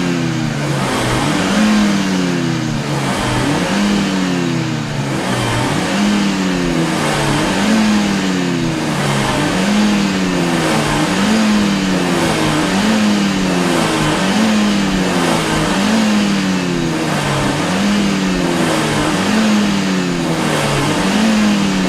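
Car engine revved over and over by pumping the gas pedal, its pitch climbing and dropping in a steady rhythm about once a second.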